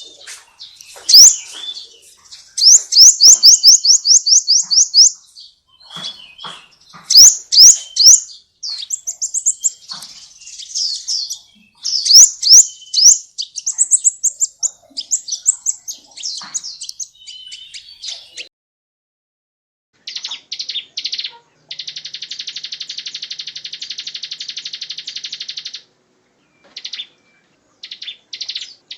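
Recorded songbird song of the kind played as masteran, tutor song for competition birds: fast series of rising, high whistled notes for about 18 seconds. After a short break, a different song follows: a long, dense buzzing trill and short chattering phrases.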